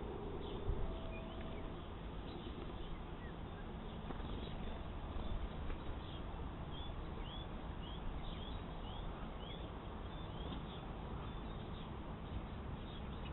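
Small birds calling: a run of short, high, falling chirps, about two a second, starting some six seconds in and lasting several seconds, with a few scattered chirps elsewhere, over a steady background hiss.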